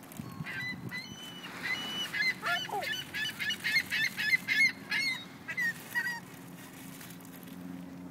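Gulls calling in a feeding crowd: many short, overlapping squawks that come in a quick run of calls about three to five seconds in, then thin out. A steady low hum runs underneath.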